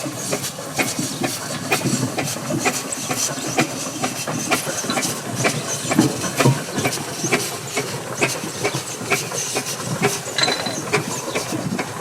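1910 Burrell 8hp steam traction engine running, with steady steam hiss and a busy, uneven clatter of clicks and knocks throughout.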